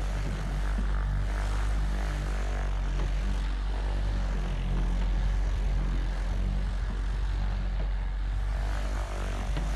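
AutoSpa 9–10 inch orbital car polisher running steadily while buffing polish into truck paint, a constant low motor drone.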